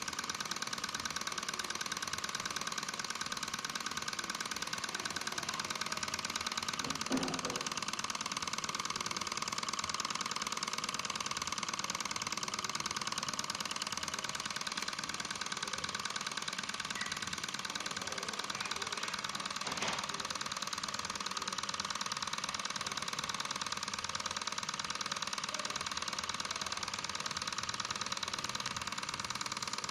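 A small model Stirling engine running steadily, a fast, even mechanical whir, with a couple of faint knocks.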